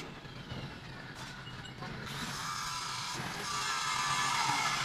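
A machine running with mechanical noise and a whine that slides steadily down in pitch, growing louder toward the end.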